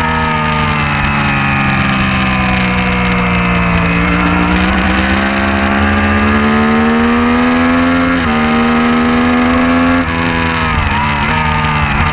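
Racing motorcycle engine at speed. The revs fall for a few seconds, then climb under acceleration, with a gear change about eight seconds in. The throttle closes sharply about ten seconds in and the revs drop and jump through downshifts. A steady low rumble runs underneath.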